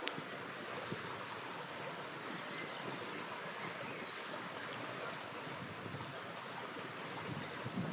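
A river flowing with a steady rushing sound, while a campfire gives a few sharp crackling pops, the loudest right at the start. Faint high bird chirps come and go.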